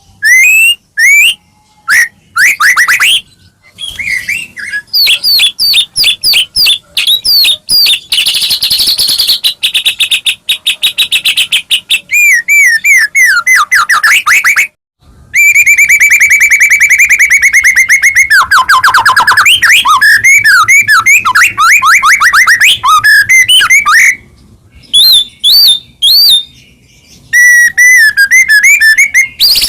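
White-rumped shama (murai batu) in full song: a loud, varied run of whistled phrases, fast repeated notes and rapid trills, broken by a few short pauses.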